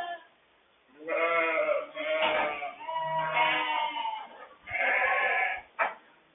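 Sheep bleating: about four long calls one after another, with a short sharp click near the end.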